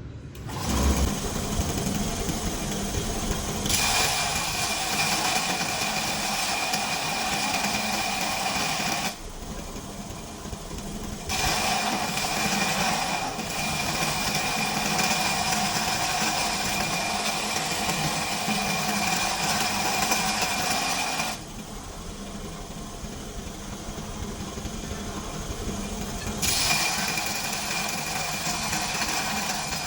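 A homemade belt grinder starts up and runs, its electric motor and sanding belt giving a steady mechanical whine. Three times it grows louder and hissier for several seconds, then drops back.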